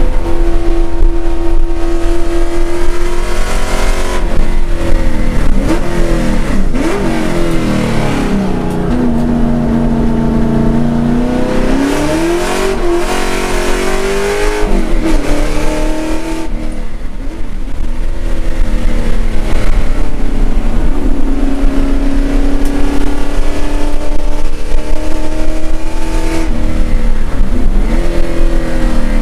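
Holden Commodore race car's V8 engine heard from inside the cabin under racing load. The note drops in steps through downshifts from about four seconds in, climbs as it accelerates hard, and holds high through the next stretch before dipping and rising again near the end.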